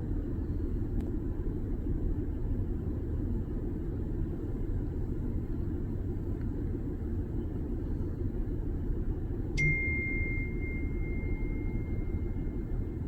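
Steady low rumble, like distant traffic or wind. About nine and a half seconds in, a sharp click is followed by a steady high ringing tone that holds for the last few seconds.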